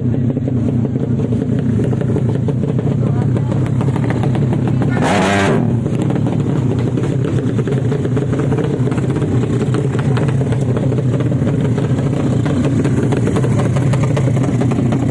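Motorcycle engine running steadily, with a brief louder burst about five seconds in.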